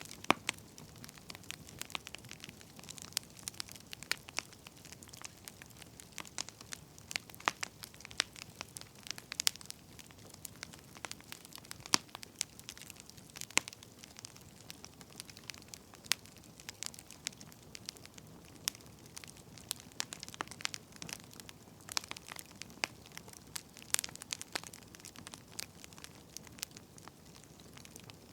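Wood fire crackling: irregular sharp pops and snaps, several a second, over a soft steady hiss of burning logs.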